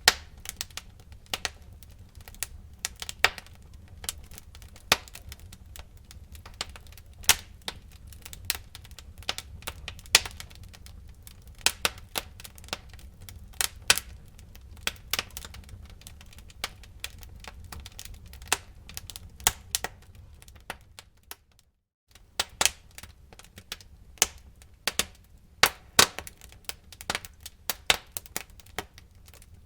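Wood fire burning in a fireplace, crackling with frequent sharp, irregular pops over a low steady rumble. The sound cuts out for a moment about two-thirds of the way through, then the crackling carries on.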